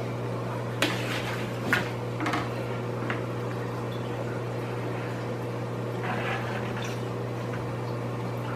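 Steady low electrical hum, with a few short sharp clicks about one, two and two and a half seconds in.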